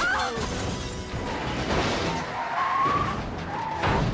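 Film soundtrack of a vehicle skidding and running, mixed with music, with short wavering squeals over the noise.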